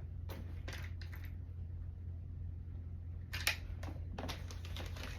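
Plastic tackle box and its lures being handled: a few scattered clicks and rattles, with a sharp click about three and a half seconds in and more small clicks near the end, over a steady low hum.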